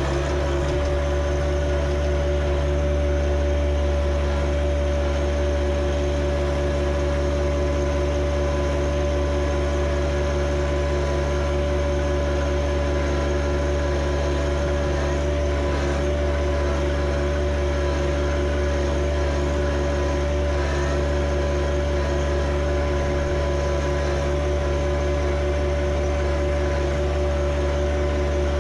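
John Deere 1025R compact tractor's three-cylinder diesel engine running at a steady, unchanging speed.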